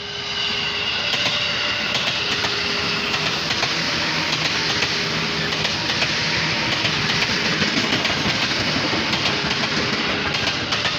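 KRL commuter electric train passing close by: a steady rumble and rush of wheels on the rails, with many clicks as the wheels cross rail joints.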